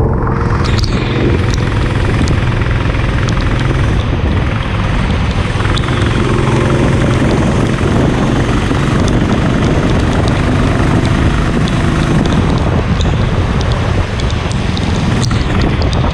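Kart engines running steadily, with a dense hiss and scattered short ticks over the engine note.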